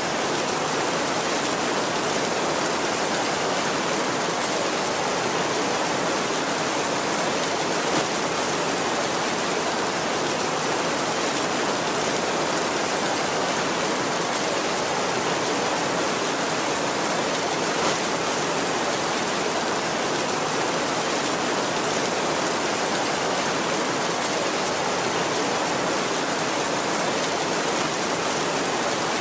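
Heavy rain falling steadily on a tin roof, an even, unbroken hiss with no thunder.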